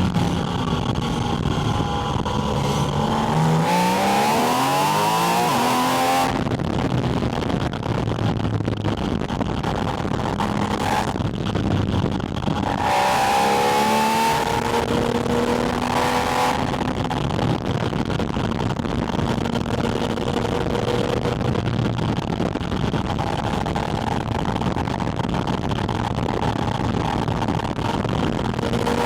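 Porsche 718 Spyder RS's naturally aspirated flat-six engine heard loud through its air intake, pitch rising as it accelerates in the first few seconds and again about halfway, then holding steady revs.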